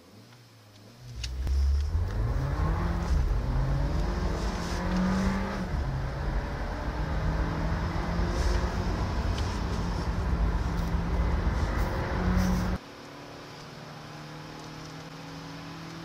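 Small 1.4-litre four-cylinder petrol car engine accelerating hard from a standstill, heard inside the cabin. Its pitch climbs through the gears and drops back at each shift. Near the end the loud engine note cuts off suddenly to a quieter steady hum.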